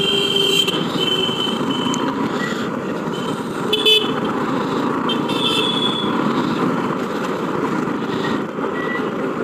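City street traffic heard from a moving motorcycle: steady engine and road noise with vehicle horns honking, in the first two seconds, briefly about four seconds in, and again around five to six seconds in.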